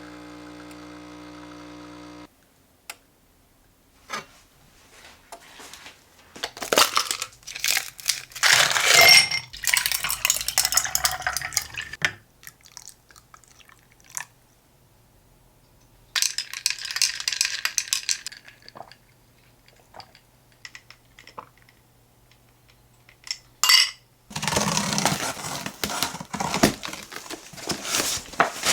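Household handling sounds: hard objects clinking and being set down, with stretches of rustling. A short tail of background music ends about two seconds in.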